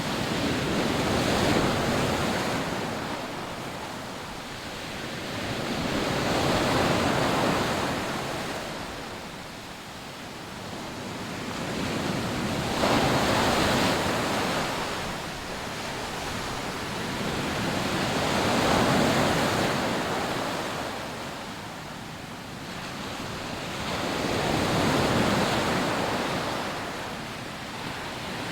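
Rough sea waves breaking and washing up a sandy beach, the surf swelling and fading about every six seconds, with some wind.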